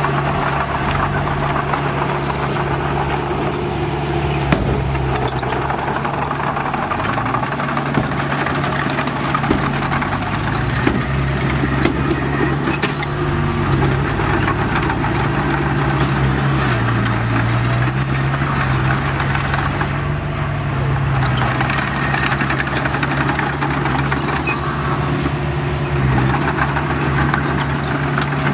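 Heavy earthmoving machine's engine running steadily, its low drone shifting slightly in pitch, with a few short knocks.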